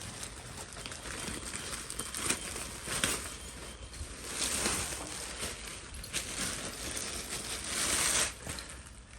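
Packaging being handled and opened: irregular rustling and crinkling, with a louder stretch of crackling about eight seconds in.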